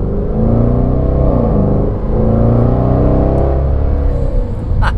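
The Velar's supercharged 5.0-litre V8 heard from inside the cabin, pulling under light throttle: the engine note climbs, dips briefly about two seconds in as it shifts up, climbs again, then eases off near the end.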